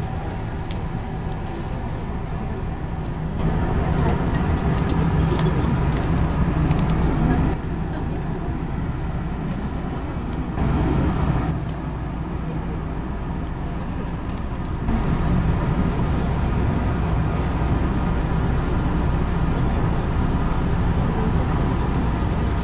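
Steady hum of a stopped electric train's on-board equipment heard inside the passenger car, its level stepping up and down a few times, with a few light clicks.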